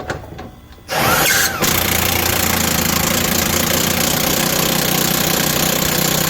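Impact wrench running on a seized rear shock bolt that has been heated to free it. It starts about a second in with a short rising whine, then runs loud and steady.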